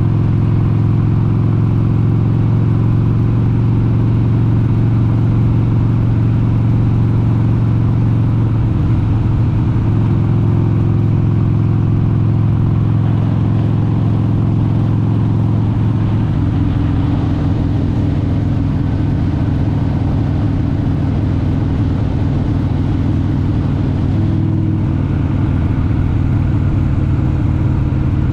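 1996 Harley-Davidson XLH883 Sportster's air-cooled 883 cc Evolution V-twin running under way. Its exhaust note changes about nine seconds in and again around seventeen seconds in.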